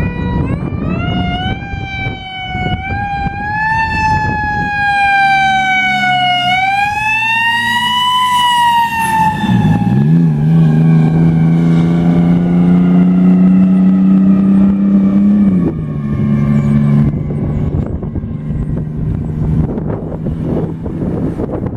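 Fire truck siren wailing, its pitch rising and falling slowly over several seconds. About ten seconds in, a long low horn blast comes in and holds for about five seconds, with a lower tone carrying on faintly afterwards.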